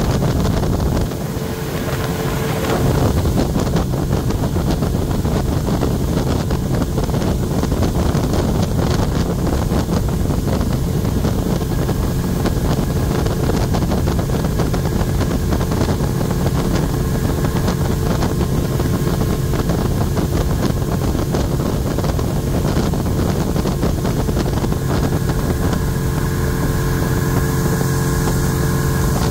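Tour boat's motor running steadily under way, with water rushing past and wind buffeting the microphone.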